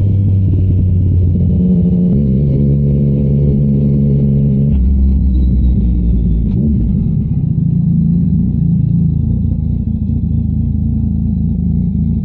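Yamaha MT-09 inline-three engine through a Shark Street GP aftermarket exhaust, ridden hard on the road. The engine note holds steady and jumps in pitch a few times in the first five seconds, then runs on rougher and steady.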